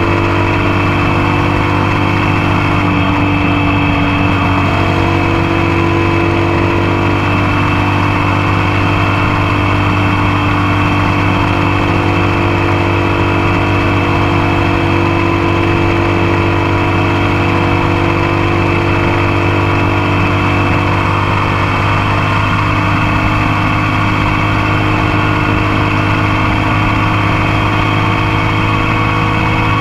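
Motorcycle engine running steadily while riding, heard close up from the passenger foot peg, under a steady rush of wind and road noise; the engine note shifts slightly about two-thirds of the way through.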